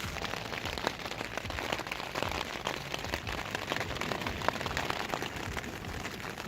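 Rain falling on the fabric of an instant tent, heard from inside: a steady, dense patter of many small drop hits.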